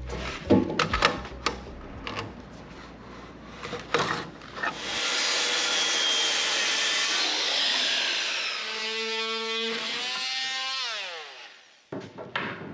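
A few sharp knocks, then a power saw cutting wood for several seconds; near the end its motor is released and winds down in a falling whine.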